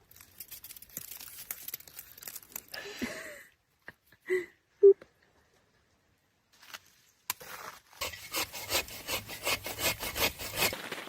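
Saw cutting through the trunk of a small conifer, with quick back-and-forth strokes about four a second in the last few seconds, felling it. Earlier there is rubbing and handling among the branches, and two short squeaky sounds about halfway through, the second of them the loudest moment.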